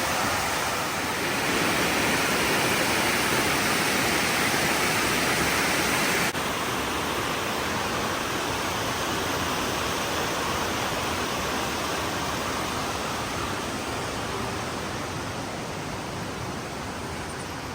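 Steady rush of water from a rainforest waterfall or rapids, with a small sudden drop in level about six seconds in, after which it slowly fades.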